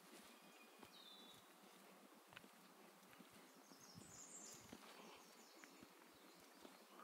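Near silence with faint bird chirps, a short one about a second in and a quick series of high notes around four to five seconds, over faint footsteps on a woodland trail.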